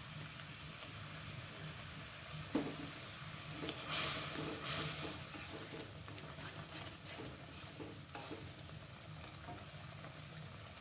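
Balado chili spice paste sizzling as it fries in an aluminium wok, while a metal spatula stirs and scrapes against the pan, with the loudest scrapes about four seconds in. The paste is being cooked down until it is done and fragrant.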